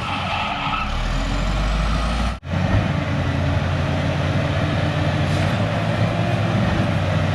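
Cat D6H bulldozer's diesel engine running steadily while the dozer works. The sound cuts out for a split second about two and a half seconds in, then the engine carries on.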